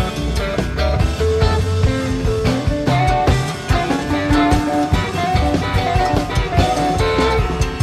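Live rock band playing, with electric guitars, bass and drum kit.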